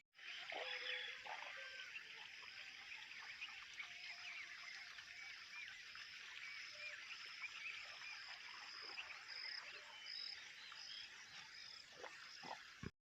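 Faint outdoor chorus of small animals: many overlapping short chirping calls, with a high call repeating at a steady pace above them. It cuts off suddenly near the end.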